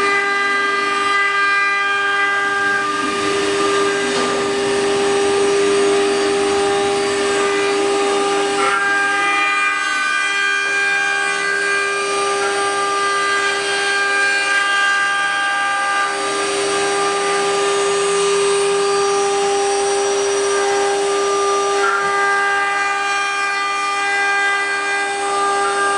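CNC wood router's spindle motor running with a steady high whine while it machines, its level shifting slightly every few seconds as the cutting load changes.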